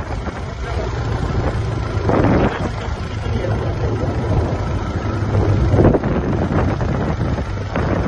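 Steady low rumble of a running vehicle, with wind noise on the microphone.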